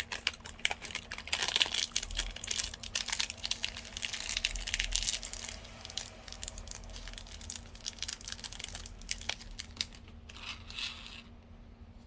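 Plastic candy-bar wrapper being crumpled and crinkled in a dense run of crackles, thinning out after about six seconds, with one last short rustle about ten seconds in.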